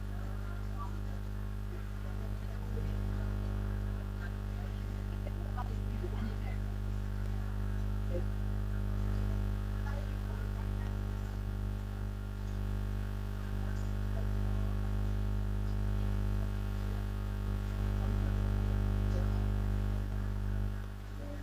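Steady electrical mains hum: a low buzz with an even stack of overtones that holds unchanged, with faint scattered clicks over it.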